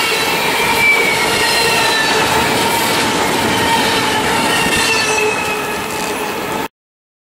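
Double-stack intermodal freight cars rolling past, their steel wheels squealing on the rails in several high, slightly wavering tones over a steady rumble. The sound cuts off abruptly near the end.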